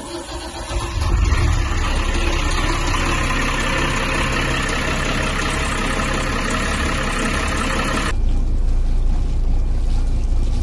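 Ford Lehman 120 six-cylinder marine diesel running at idle while it draws antifreeze through its raw-water cooling system for winterizing. A loud hiss sits over the engine's low running and cuts off abruptly about eight seconds in, while the engine keeps running.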